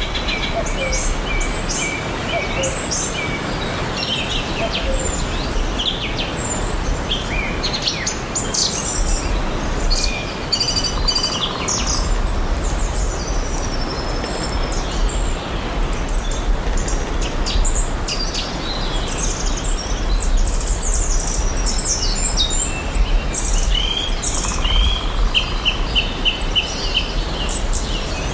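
Several songbirds chirping and singing over a steady background hiss, with a fast run of repeated notes near the end and a low rumble underneath for the later part.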